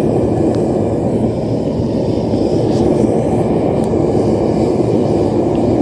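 Propane forge burner running with a steady, loud roar.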